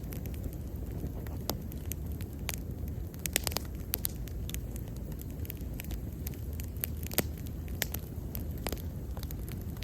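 Wood bonfire burning with a low steady rumble of flames and irregular crackles and pops of burning wood, a small cluster of pops a little over three seconds in and a sharper pop about seven seconds in.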